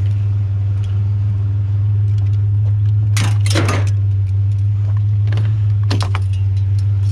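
Truck engine idling with a steady low hum, with a few sharp clanks of scrap metal being set down, a pair about three seconds in and several more near the end.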